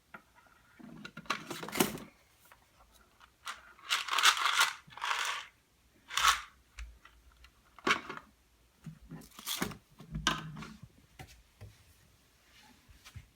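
Small play-kitchen items being handled: a run of short clicks, knocks and rustling scrapes with quiet gaps between, the longest a hissy rustle a few seconds in.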